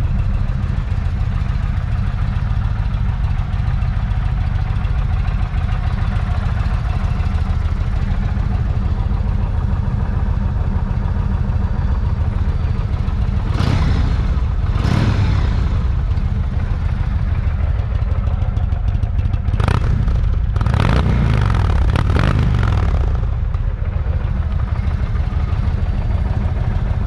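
Indian Chief Dark Horse's Thunder Stroke 111 air-cooled V-twin idling, its throttle blipped twice about halfway through and three more times a little later, each rev rising and falling back to idle.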